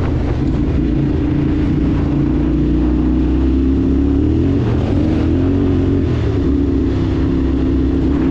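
Vehicle engine running steadily on the road, its pitch dipping and then rising again about four to six seconds in, over wind and road noise.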